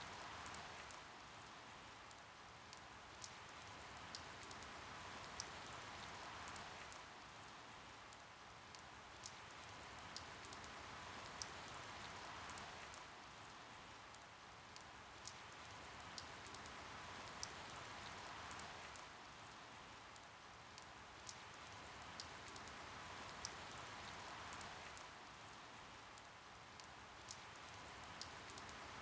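Steady rain falling, with individual drops ticking sharply among the hiss. The rain swells and eases gently every few seconds.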